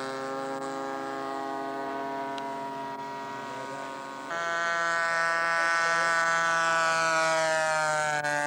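Zenoah 23 cc two-stroke gasoline engine of a scale model Nieuport monoplane running in flight, a steady buzzing drone. The pitch sags slightly over the first few seconds; then, about four seconds in, the engine is suddenly louder and a little higher and holds steady.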